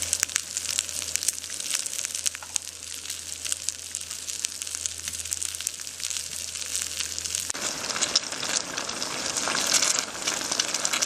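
Food frying in a hot pan or griddle, a dense steady sizzle with many small crackles. About seven and a half seconds in, a low hum under it stops and the sizzle changes character.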